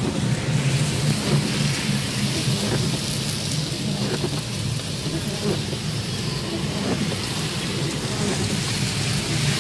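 Rain pattering on a car's roof and windscreen, heard from inside the moving car, over a steady low hum of engine and tyres.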